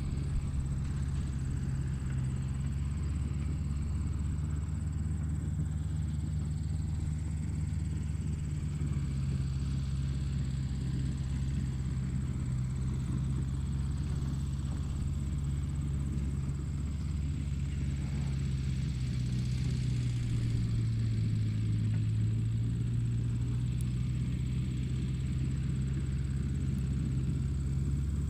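Steady low mechanical hum of a running motor, its pitch shifting slightly about two-thirds of the way through.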